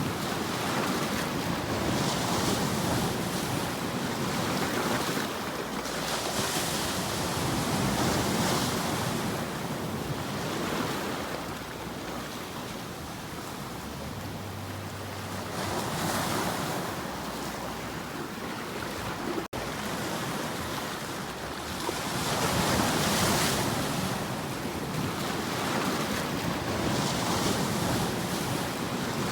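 Sea waves washing in, a steady surf noise that swells and eases every few seconds. The sound cuts out for an instant about two-thirds of the way through.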